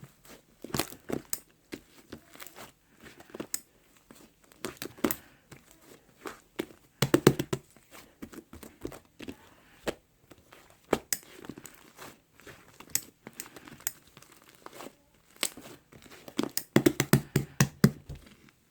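Irregular crinkling and crackling, like plastic or paper being handled, made of many sharp clicks. It grows louder in bunches about seven seconds in and again near the end.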